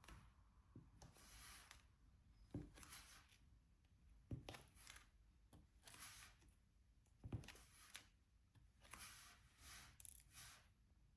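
Faint diamond painting sounds: a drill pen scraping and rustling as it picks up drills and presses them onto the canvas, with three sharper taps.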